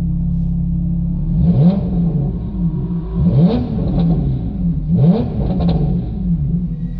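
Early 991 Porsche 911 Carrera S's flat-six running through an Armytrix aftermarket exhaust: a steady cruise note, then three quick rises and falls in revs about two seconds apart.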